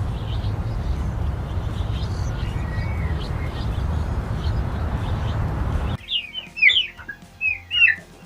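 Small birds chirping over a steady low rumble. About six seconds in, the rumble cuts off abruptly and louder, sharper bird calls with quick falling notes take over.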